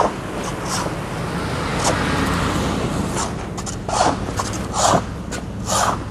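Boots crunching through snow at a walking pace, roughly one step a second, with a vehicle going by on the snowy street about two seconds in.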